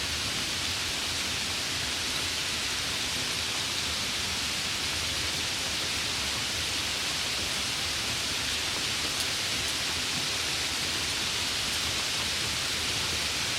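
Steady rain, an even, unbroken hiss heaviest in the high range, with no separate drops or thunder standing out.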